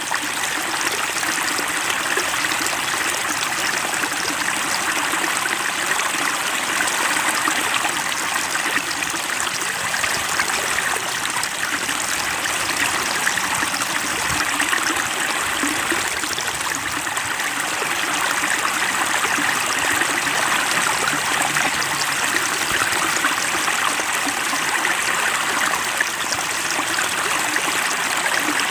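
Steady rushing noise of flowing water, like a stream, holding an even level throughout.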